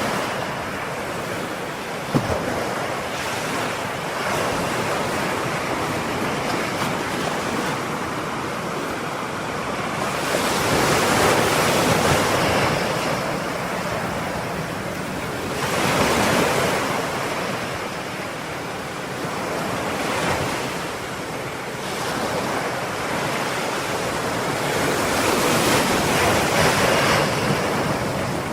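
Ocean surf: a continuous wash of waves breaking on a shore, swelling louder every few seconds as each wave comes in and then easing back.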